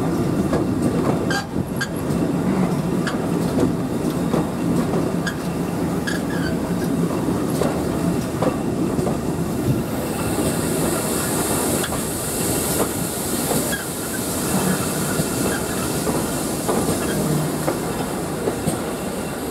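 Carriage of a steam-hauled heritage train running along the track, heard from the carriage window: a steady rumble with wheels clicking over rail joints, and a hiss for a few seconds about halfway through.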